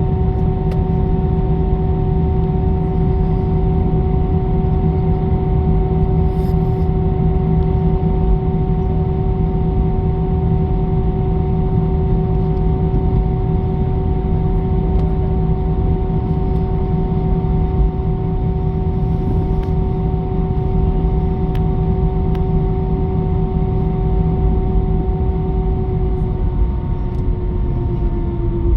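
Airbus A319's twin jet engines running steadily with a deep rumble and several steady whining tones, dropping slightly in pitch near the end as thrust eases.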